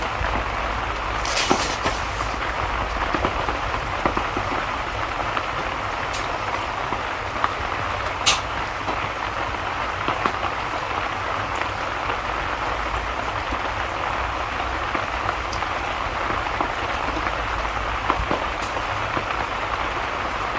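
Steady rain falling, with a few sharp crackles and pops of a wood fire scattered through it.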